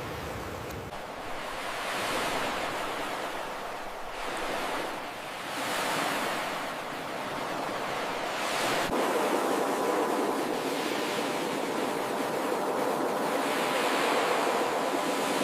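Ocean surf washing in and out, a steady rushing that swells and fades every few seconds as waves break. A single sharp click about nine seconds in.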